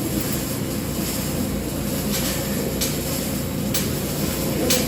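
Steady rumbling workshop noise with the hiss of a TIG welding arc on carbon steel pipe, broken by a few short, sharp hisses in the second half.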